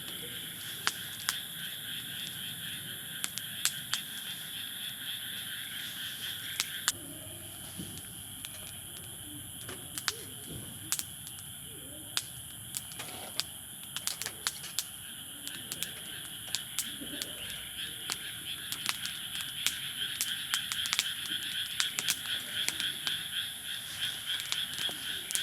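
Wood campfire crackling, with sharp pops scattered irregularly throughout, over a steady high-pitched background chorus.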